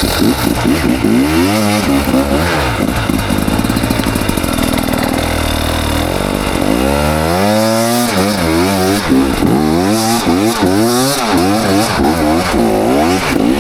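KTM 300 XC two-stroke dirt bike engine being ridden, its revs rising and falling again and again with quick bursts of throttle. The revs hold steadier for a couple of seconds near the middle.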